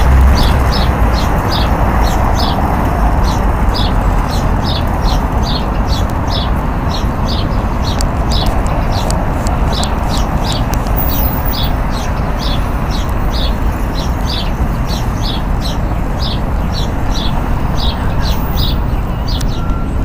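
A small bird chirping over and over, two to three short high chirps a second, over a steady rumble and hiss of outdoor city noise.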